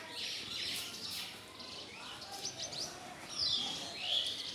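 House sparrows chirping, several birds calling over one another in quick, overlapping chirps.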